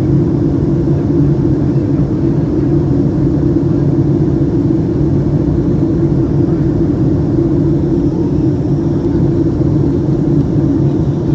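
Steady drone inside the cabin of a Boeing 757-200 in flight: its Pratt & Whitney PW2000 turbofan engines and airflow, with a constant low hum.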